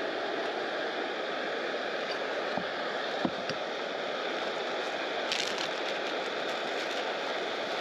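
Small creek flowing steadily, an even rush of water, with a few light clicks about three seconds in.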